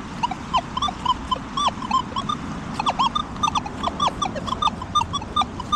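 Metal detector giving rapid short chirps, about three or four a second, each a quick hooked tone that varies slightly in pitch, as the coil sweeps over a patch full of junk targets.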